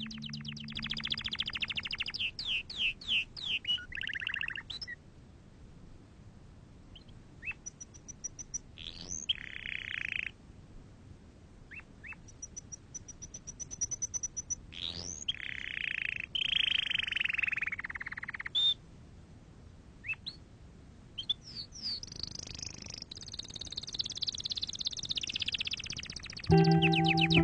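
A songbird chirping and trilling in several rapid phrases with short quick upward sweeps, broken by quieter pauses. Music comes back in near the end.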